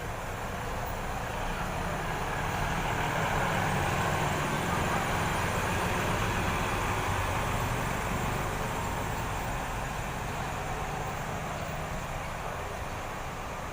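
Diesel engine of a large intercity coach running close by, a low steady rumble that swells a couple of seconds in and eases off again after about eight seconds, as a bus moves off.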